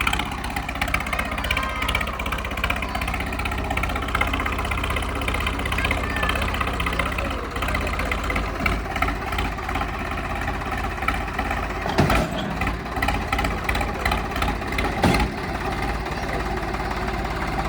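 Tractor diesel engine running steadily, with two sharp knocks a few seconds apart past the middle.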